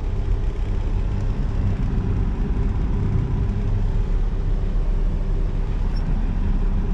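Semi truck's diesel engine running steadily: a continuous low rumble.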